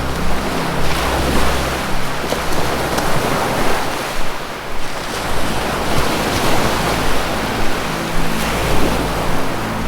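Ocean surf washing in and out in swells, with a low held music drone underneath that fades out about two seconds in and returns near the end.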